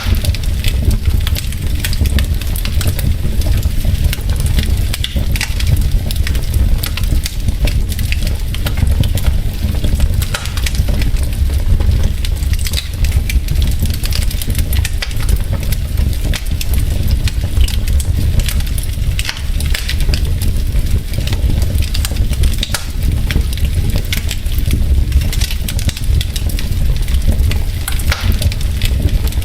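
Wood fire burning in a fireplace, the logs crackling with many small sharp pops over a steady low rumble of the flames.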